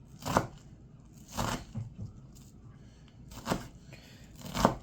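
Kitchen knife dicing an onion on a cutting board: four separate cuts, each a short crunch and knock of the blade against the board, spaced one to two seconds apart.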